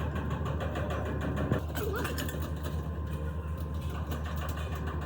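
A motor or engine running steadily with a low, even hum, faint voices under it.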